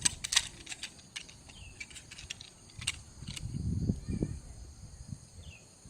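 Wood fire crackling with sharp scattered pops, most of them in the first second. A steady high-pitched insect chorus runs behind it, and a low rumble swells up about four seconds in.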